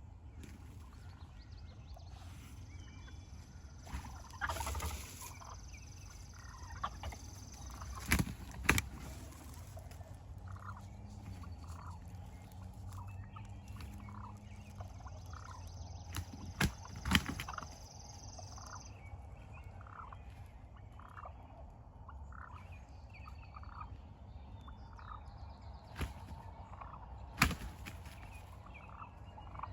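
Wild turkey gobbler gobbling several times, the loudest gobbles in quick pairs about 8 and 17 seconds in, with another near the end. Between them runs a long series of short, evenly spaced soft notes.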